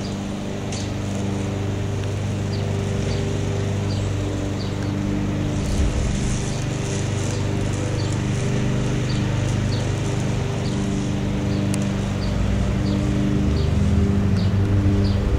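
An engine runs steadily at an even pitch, with faint short high chirps repeating about once a second over it.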